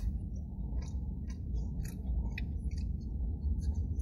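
A person chewing and biting into a fried chicken sandwich: soft, irregular wet clicks and smacks of eating, over a steady low rumble.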